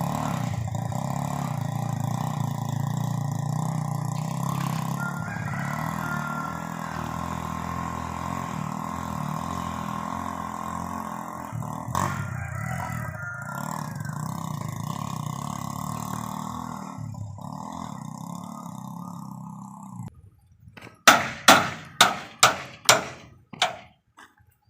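A Honda Revo motorcycle engine in a homemade vehicle running steadily, growing quieter and stopping about twenty seconds in. It is followed by about seven sharp knocks, roughly two a second.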